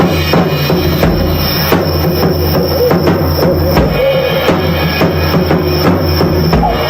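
Drum kit playing a solo, a steady run of bass drum and snare strokes.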